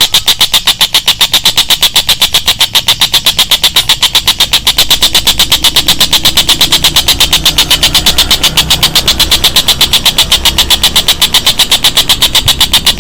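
A high chirping call repeated fast and evenly, several pulses a second, from a songbird tutoring recording. A low rumble joins underneath from about five seconds in.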